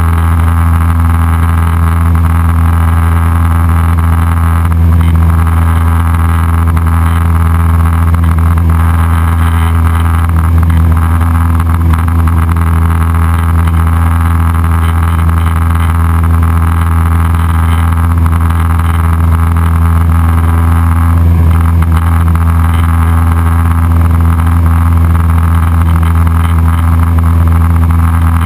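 Cessna 172SP Skyhawk's four-cylinder Lycoming IO-360 engine and two-blade propeller droning steadily in flight, holding one even pitch with a strong low hum.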